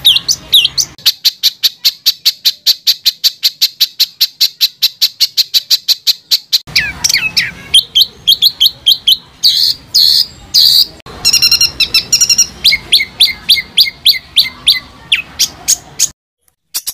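Songbird song used as masteran training material: a rapid run of sharp repeated notes, about six a second, for several seconds, then a varied string of harsh calls and buzzy bursts that cuts off just before the end.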